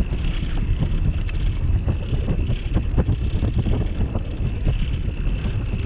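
Wind buffeting the microphone of a camera mounted on a moving bicycle, with a steady low rumble and frequent small knocks and rattles from the bike rolling over the track.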